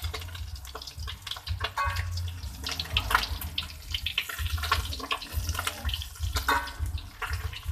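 Water running from a tap into a sink, splashing, with scattered knocks and a couple of short ringing clinks of kitchenware, about 2 seconds in and again near 6.5 seconds.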